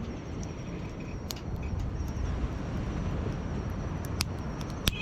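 Campfire burning, with a few sharp crackling pops over a steady low rumble.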